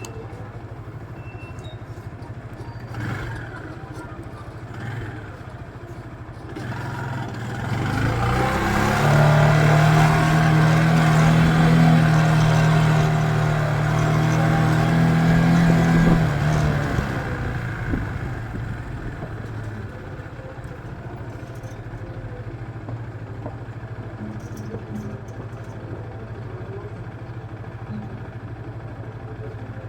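Motor traffic with a steady low engine hum. About seven seconds in, a vehicle engine swells loud, holds one steady pitch for about eight seconds, then fades away.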